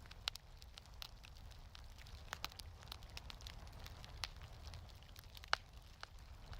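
Wood fire crackling in a fireplace: scattered sharp pops and snaps over a low steady rumble, the loudest pop about five and a half seconds in.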